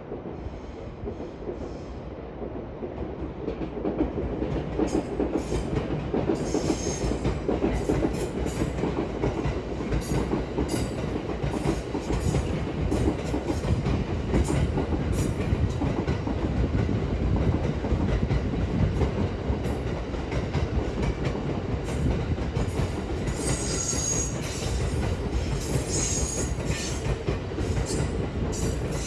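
A train running close by on the rails, getting louder over the first few seconds and then holding steady, with many clicks from the wheels and a few brief high squeals.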